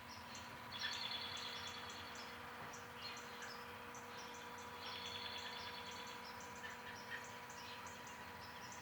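Evening chorus of songbirds: many short, high chirps throughout, with a longer buzzy trilled song about a second in and again about five seconds in. A steady faint hum runs underneath.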